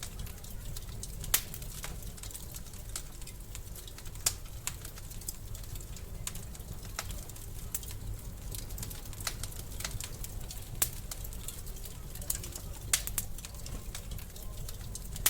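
Wood fire crackling in a fireplace: irregular sharp pops and snaps, a handful of them much louder, over a steady low rumble.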